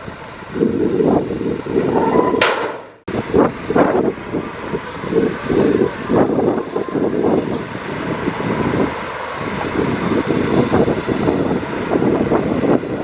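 Heavy earthmoving machinery working: a diesel engine running hard with a rough, pulsing clatter. The sound breaks off abruptly for a moment about three seconds in, then carries on.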